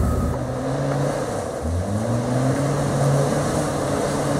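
Off-road 4x4's engine rising in revs about a second and a half in, then held steady at the higher speed.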